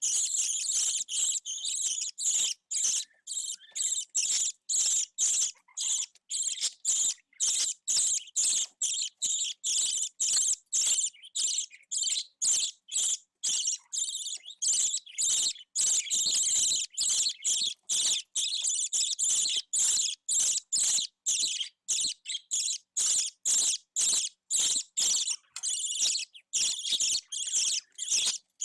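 Budgerigar chick calling: short, high-pitched chirps repeated steadily, about two a second.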